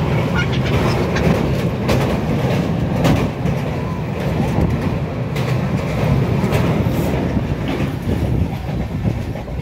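Passenger train running, heard from inside the coach: a steady low rumble with occasional sharp clacks of the wheels over the rail joints.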